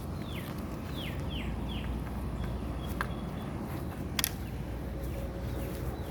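A songbird gives four quick falling whistled calls in the first two seconds, over a steady low outdoor rumble. Two sharp clicks follow a little later, the second about four seconds in.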